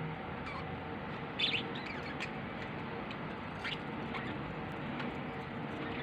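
Small pet bird giving a few short chirps over a steady background hiss. The loudest chirp comes about one and a half seconds in, and another near the middle.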